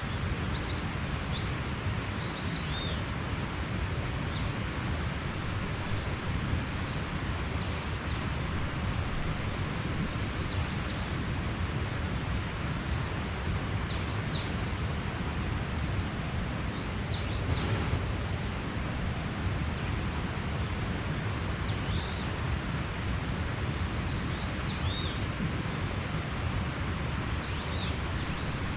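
Mountain stream running with a steady rush of water, while a small bird gives short, high chirps every second or two, some in quick pairs.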